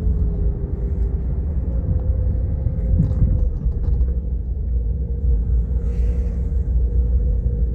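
Steady low rumble of a Jeep Grand Cherokee being driven, heard from inside the cabin: engine and road noise, with a faint steady whine over it.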